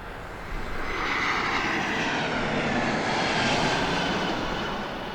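Jet aircraft passing close by: the engine noise swells about half a second in, is loudest around three to four seconds in, then fades, with a whine that slides down in pitch as it goes past.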